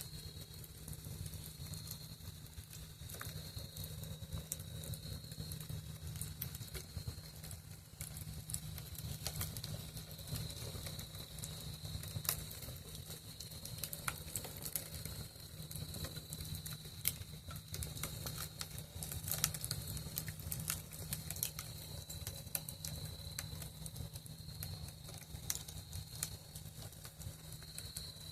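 Campfire crackling with scattered sharp pops, over a steady high trill of crickets and a constant low rumble.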